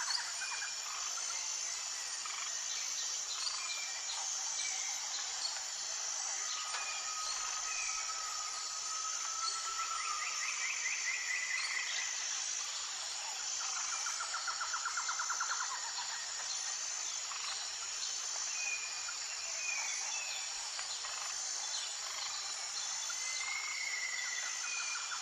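Outdoor nature ambience: a steady, high insect chorus pulsing about once a second, with scattered bird calls and a couple of rapid trills.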